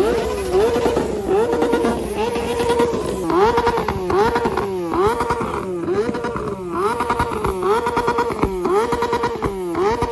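A motorcycle engine held at very high revs, its pitch dipping and climbing straight back to the same steady top note again and again, about every three-quarters of a second, like a bike bouncing on its rev limiter.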